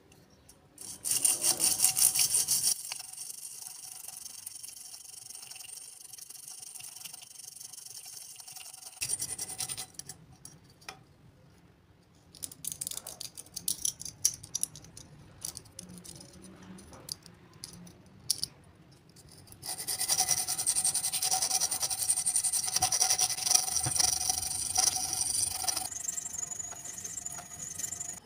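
A mixer grinder blade being sharpened, its metal scraped against an abrasive in two long bouts with a steady ringing tone, with scattered clicks and knocks of handling in between.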